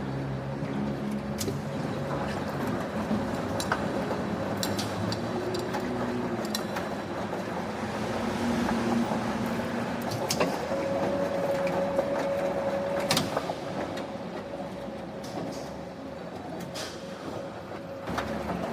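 Factory machinery running steadily, with a constant hum and scattered sharp metallic clicks and knocks.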